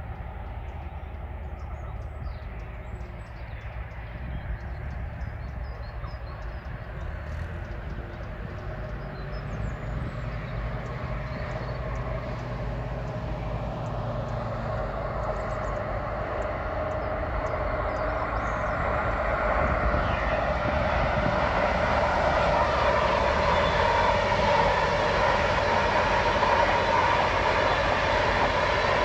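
A train approaching along the line, its rumble and rail noise growing steadily louder, loudest near the end.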